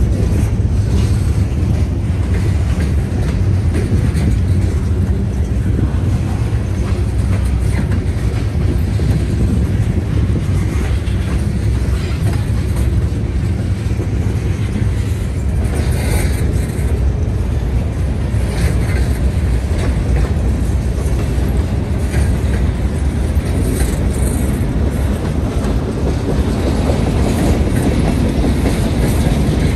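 Freight train cars rolling past close by: a steady low rumble of steel wheels on the rails, with repeated clicks as the wheels cross rail joints.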